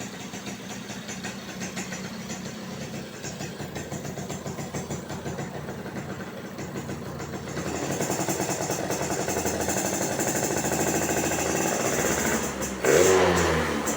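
Yamaha V80's two-stroke engine running through an F1ZR racing exhaust: a pulsing idle that picks up a little over halfway through, then a sharp rev with the pitch sweeping up and back down near the end.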